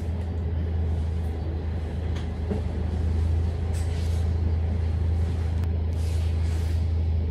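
Scania K310UD double-decker bus's five-cylinder diesel engine running under load, a deep steady drone that comes up strongly right at the start.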